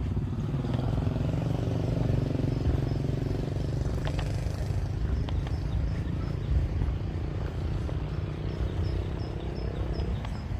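A motor vehicle engine running close by in a street, its pitch rising near the end as it moves past.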